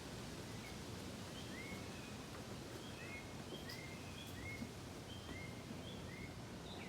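Small birds chirping, a run of short, quick, rising notes repeated many times, over a steady outdoor background hiss.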